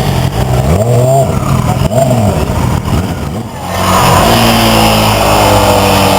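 Motorcycle engines revving up and down again and again, then settling into a steady engine note from about four seconds in.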